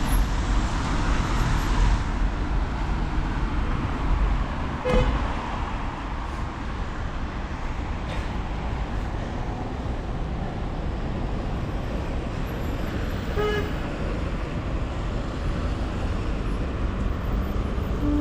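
Street traffic and steady wet-road hiss heard from a bicycle riding in the rain through city traffic. There are two short horn toots, one about five seconds in and another near thirteen seconds.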